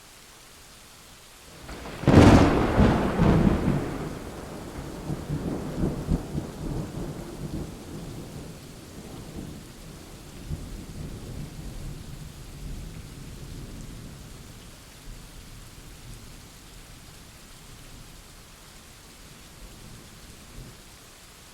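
Steady rain with a single thunderclap about two seconds in: a sharp crack that breaks into crackling for a couple of seconds, then a long rolling rumble that slowly dies away.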